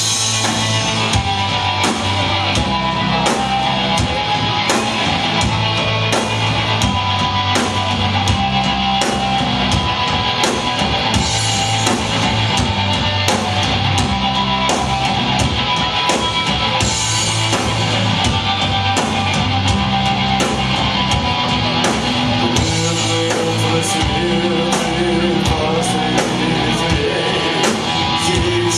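Live rock band playing loud with distorted electric guitars, bass and a drum kit keeping a steady driving beat; the bass and drums come in right at the start.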